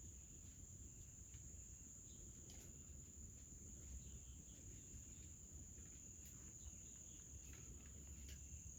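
Near silence: a faint, steady high-pitched insect drone, like crickets, with a low rumble underneath and a few faint ticks.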